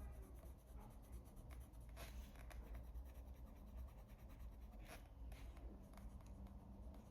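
Coloured pencil rubbing faintly on paper in light blending strokes, with a couple of small taps.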